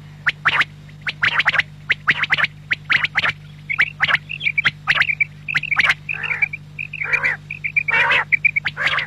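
Quail calling: a rapid, continuous run of short sharp call notes mixed with quick series of brief, higher piping notes. A steady electrical hum runs underneath.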